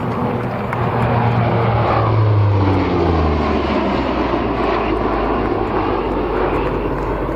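Lockheed P-3C Orion's four Allison T56 turboprop engines on a low fly-past: the propeller drone drops in pitch as the aircraft passes, about two to three seconds in, then gives way to a broad, steady rumble as it climbs away.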